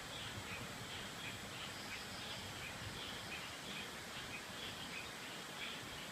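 Tropical forest creek soundscape: the steady rush of running water, with short high chirps from small calling animals repeating a few times a second over it.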